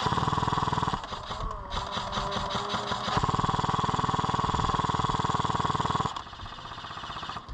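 Airsoft gun firing on full auto in long sustained bursts, a rapid even rattle of shots. It breaks off briefly about one and three seconds in, then fires a final burst of about three seconds that stops about six seconds in.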